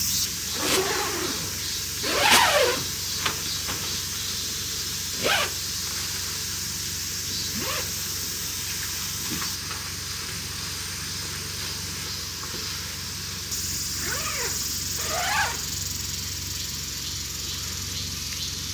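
Several short animal calls, each sweeping up and down in pitch, a few seconds apart, over a steady hiss.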